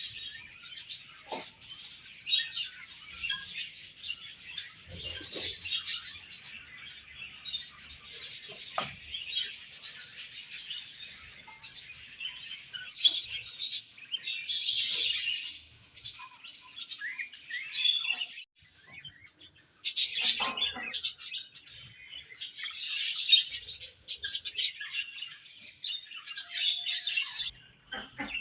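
A colony of budgerigars chirping and warbling together, a continuous chatter of many overlapping calls, with louder bursts of chatter several times.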